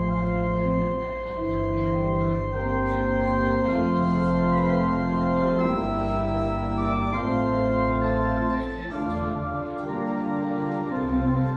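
Organ playing slow, sustained chords over held bass notes, the chords changing about every one to two seconds.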